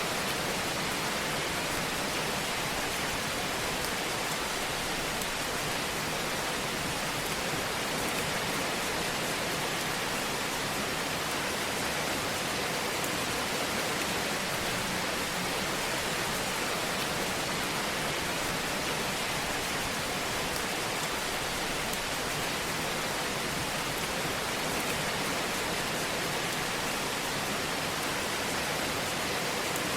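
Fireplace fire ambience: a steady, even hiss with a few faint crackles.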